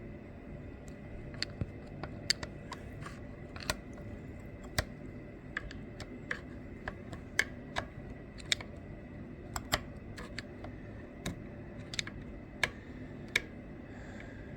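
Light, irregular clicks and taps of a metal tool working against the oiler adjuster of a Stihl MS 462 C chainsaw, about one or two a second, as a drift pin is set against the adjuster's stop.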